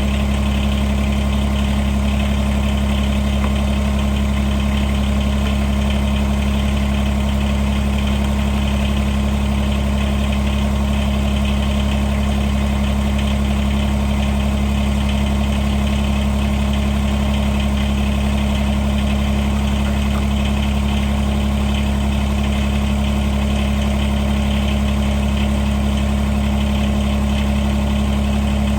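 Diesel engine of a compact tractor idling steadily.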